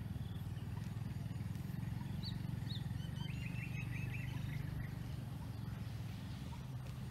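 A small bird calling: two quick rising chirps, then a short rapid run of notes, over a steady low rumble.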